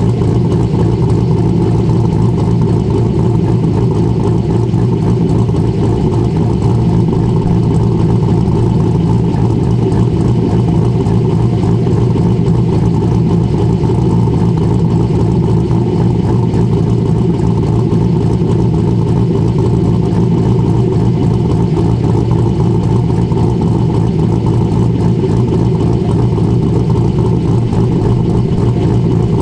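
C6 Corvette's LS3 V8 with a BTR Stage 3 camshaft idling steadily, its big cam giving it a choppy idle.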